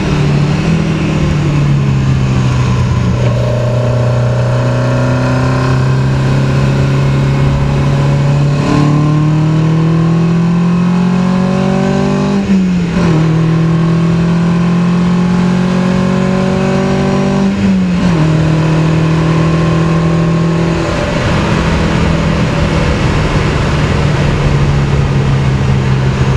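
1972 BMW 2002 tii's four-cylinder engine, rebuilt with twin Weber 45 carburettors and a race cam, running hard, heard inside the cabin. Its pitch climbs slowly as it pulls, jumps up once about 9 seconds in, and drops sharply at gear changes about 12 and 18 seconds in.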